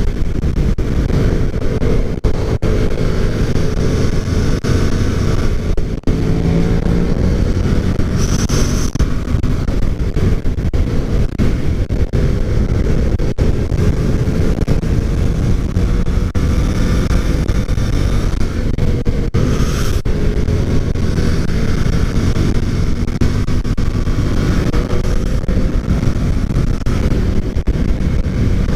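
Yamaha FZ-07's 689 cc parallel-twin engine running under way at a steady pace through curves, its pitch drifting gently up and down with the throttle. Heavy wind rush on the microphone runs underneath.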